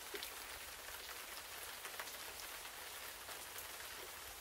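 Steady rain falling, with many separate drop hits ticking close by.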